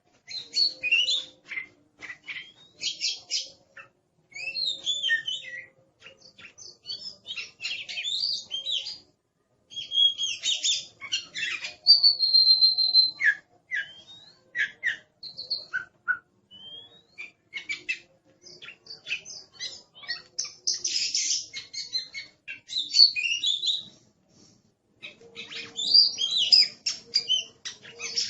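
Oriental magpie-robin (kacer) singing a loud, fast, varied song of whistles, chirps and harsh chatters in bursts of a few seconds with short pauses between them. This is the bird in an aggressive, fired-up (galak) singing mood.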